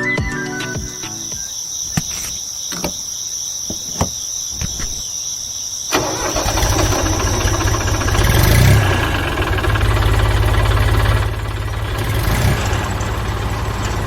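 A few clicks and knocks over a steady high whine, then about six seconds in a small engine starts and keeps running with a rapid low chugging.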